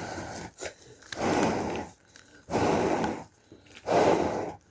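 A person blowing hard on a smouldering fire: four long puffs of breath about a second and a half apart, trying to make damp wood catch.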